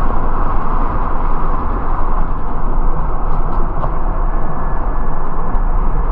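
Steady engine rumble and road noise of a moving New York City MTA bus, heard from inside.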